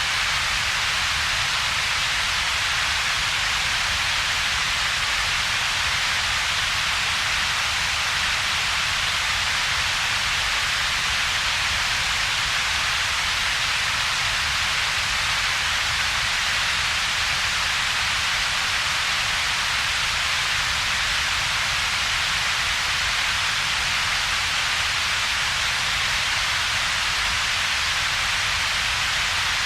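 Synthetic double-peaked noise: a steady, unchanging hiss with its strongest band in the upper mid-range and a second, weaker rumble in the low bass, with a gap in between.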